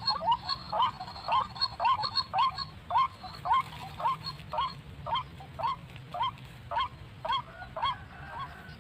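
White-breasted waterhen (ruak-ruak) calling: a long run of short, hoarse, upward-hooked notes, about two to three a second, stopping shortly before the end.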